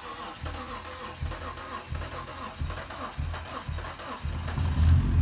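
BMW M5 engine cranking on its starter, with a rhythm of low pulses and a whine, then catching at about four seconds in and running. The car is being jump-started from another vehicle because its own battery is dead after sitting unused.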